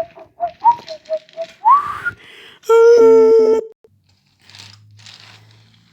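Steam locomotive sound effects: rapid chuffing puffs at about four a second, then a short rising whistle, then a loud steam whistle blast of several notes together, under a second long, about three seconds in.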